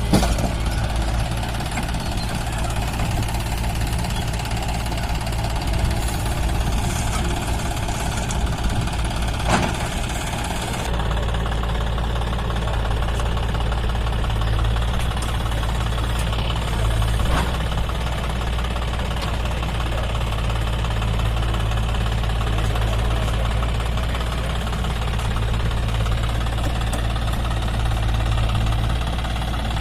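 John Deere 5204 tractor's three-cylinder diesel engine running steadily.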